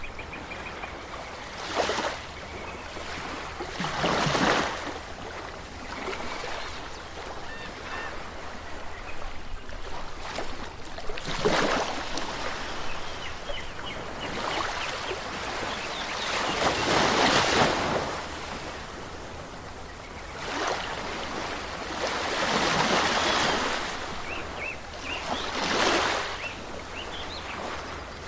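Waves washing onto a shore, each swell of surf rising and falling every few seconds, with faint short bird calls over it.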